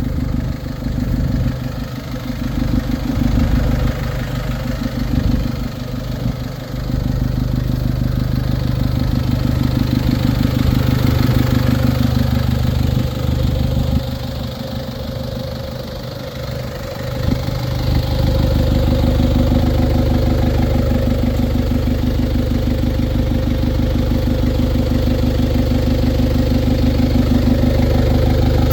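Diesel engine of a 2017 Iveco Eurocargo 80E12 truck idling steadily, with no revving. The sound wavers for the first half and then holds steadier and a little louder.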